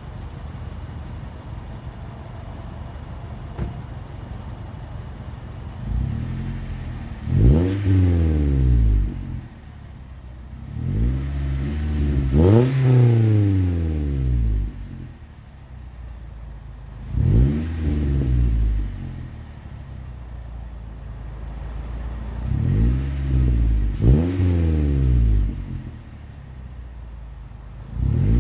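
Toyota Corolla's 1.8L 2ZR-FE inline-four through a Borla axle-back exhaust, warm and idling, then blipped in a series of light revs about every five seconds. Each rev rises in pitch and falls back to idle, and one of them is a quick double blip.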